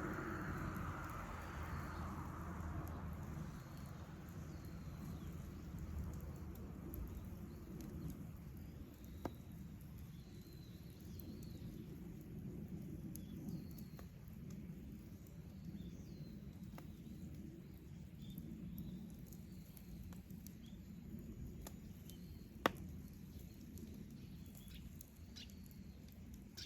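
Wood campfire burning with faint crackling and two sharp pops, one about nine seconds in and a louder one later on. Faint bird chirps are heard behind it.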